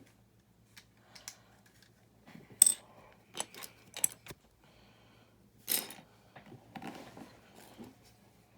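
Small plastic building-brick pieces clicking and clattering as they are handled and sorted through, in scattered separate clicks, the sharpest about two and a half and six seconds in.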